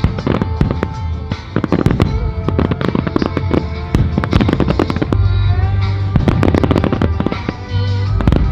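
Fireworks display: a dense run of aerial shell bursts and crackling, with heavier low booms from about five seconds in. Music plays underneath.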